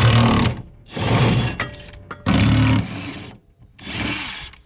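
Cordless impact wrench hammering on the mower's blade bolts in four short bursts of about half a second each, working them loose.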